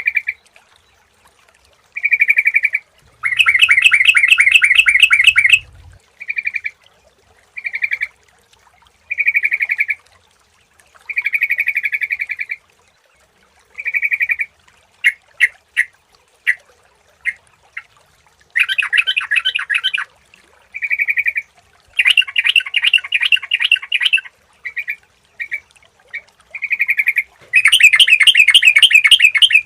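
Yellow-vented bulbul (trucukan) calling: short, clear notes repeated with brief pauses, broken by several longer, fast chattering phrases of about two seconds each, and a run of quick ticks in the middle.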